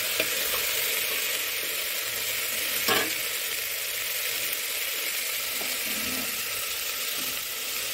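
Chickpeas, peas and chopped tomato sizzling as they fry in oil in an open aluminium pressure cooker, with a steady hiss. There is one sharp knock about three seconds in.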